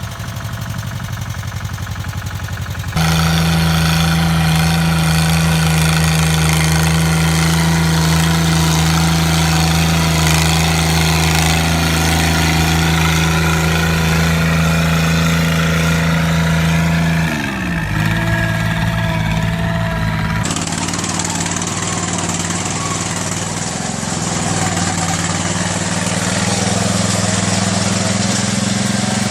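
Small mini-tractor engines running steadily under load, heard across several spliced clips with abrupt changes in tone. About two-thirds of the way through the engine pitch sweeps down sharply for a moment.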